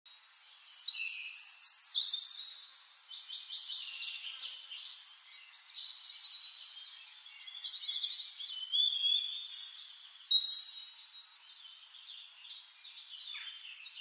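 Birds singing and calling, many overlapping chirps and whistled notes, some sliding in pitch, with louder bursts of song about two seconds in and again around nine to ten seconds.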